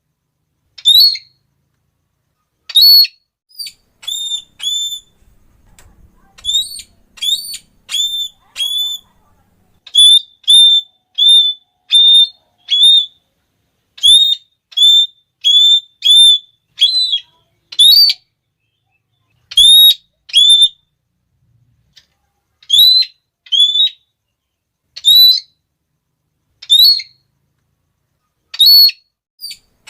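Red-cheeked parrot giving shrill, repeated 'klee' calls: short high notes, some bending upward, in runs of several about half a second apart with brief pauses between runs.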